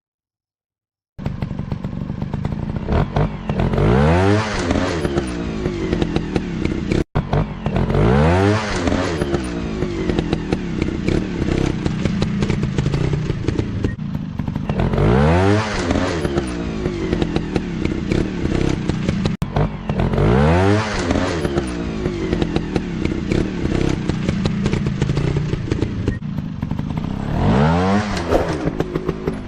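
Off-road trail motorcycle engines running and revving up again and again, the pitch rising in a sweep roughly every five to seven seconds, starting about a second in.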